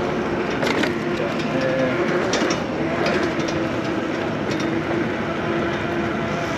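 Riding noise from an electric bike on the move: a steady rush of wind and tyre noise with a faint steady hum and a few short rattles.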